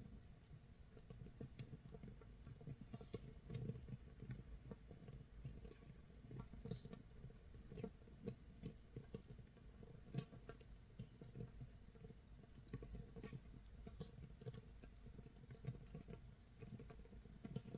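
Makgeolli starter mash fermenting in a jar about 24 hours in: a faint, dense, irregular crackle of small bubbles popping, like light rain or crackling toasted rice.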